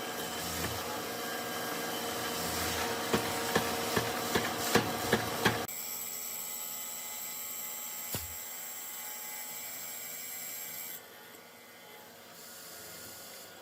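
Woodworking sounds: a tool scraping or rasping on wood with a quick run of sharp knocks, then, after an abrupt change, a steadier mechanical hiss with a thin high whine.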